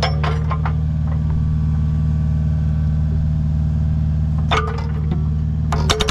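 Kubota U55 mini excavator's diesel engine running steadily while the hydraulic breaker hammer pauses, with a sharp metallic knock about four and a half seconds in; right at the end the Agrotk breaker starts its rapid hammering again.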